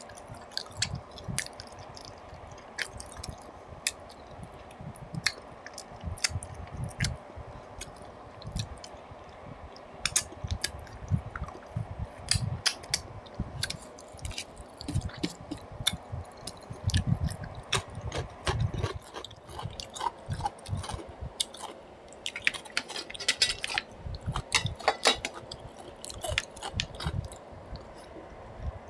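A person chewing and biting mutton paya curry with rice, eaten by hand. The chewing is wet and squishy, with frequent sharp mouth clicks, and the clicks come thicker about two-thirds of the way through.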